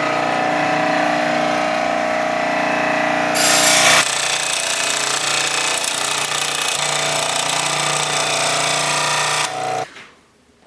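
A 16-inch scroll saw running, its blade reciprocating steadily as it cuts a thin plexiglass sheet. It grows briefly louder and hissier a few seconds in, then stops near the end.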